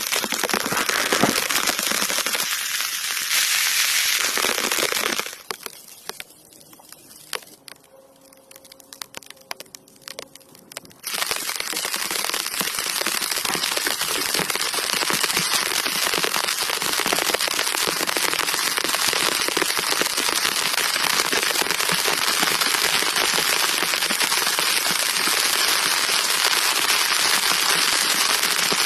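Heavy rain, a dense patter of drops striking a nearby surface. It drops away to a much quieter patter about five seconds in and comes back steady and loud at about eleven seconds.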